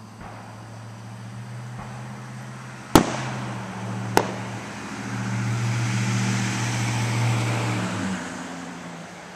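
Two sharp firework bangs about a second apart, the first the louder, after a couple of faint pops. Under them runs a steady low hum that stops near the end, and a rushing noise swells in the last few seconds.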